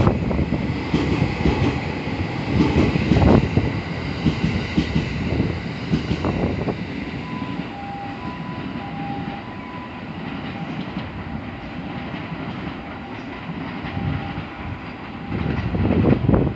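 Train running along the rails through a station, its wheels clattering over rail joints; loudest at first, easing in the middle and growing louder again near the end.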